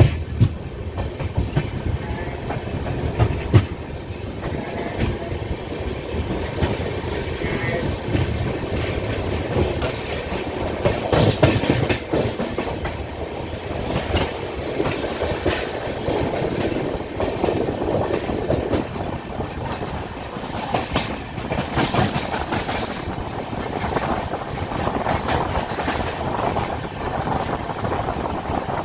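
Passenger train coach running along the track, heard from its open door: a steady rolling rumble of steel wheels on rails, with irregular sharp clicks and clanks from the wheels and running gear.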